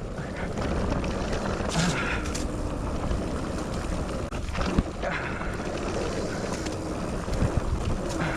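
An electric mountain bike being ridden over a rough dirt trail: a steady rumble of wind on the microphone and tyres on the ground, with the bike clattering over bumps and one sharp knock a little after halfway.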